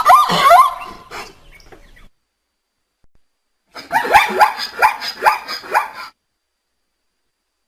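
An animal giving rapid series of short, yelping bark-like calls, each rising and falling in pitch, in two bouts: one ending about a second in, the other starting near four seconds.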